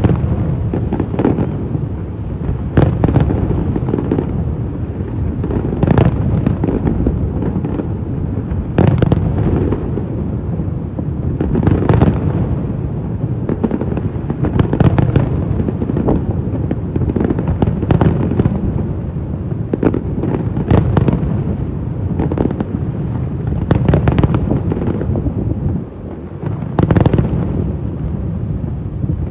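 Aerial fireworks bursting in a continuous display: a steady low rumble of booms, with sharp, loud shell bangs every second or two and crackling after some of them.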